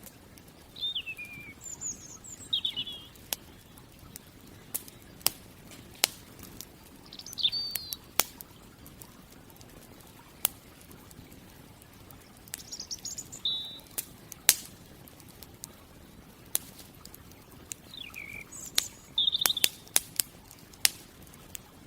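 Campfire crackling with scattered sharp pops, while a songbird calls in four short bursts of quick falling chirps.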